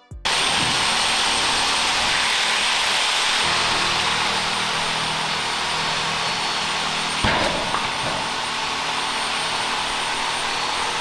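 A steady rushing noise with no pitch, and a single sharp knock about seven seconds in.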